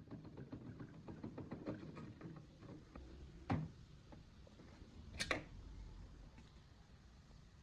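Metal parts and hand tools being handled: a run of small clicks and scrapes, a sharp knock about three and a half seconds in, and a metallic clink about five seconds in.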